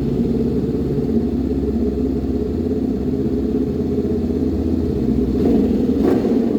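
Honda CBR500R's parallel-twin engine idling steadily, with a slight swell in level near the end.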